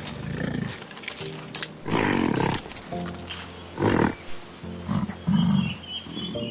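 Several separate animal calls over background music, the loudest about two and four seconds in.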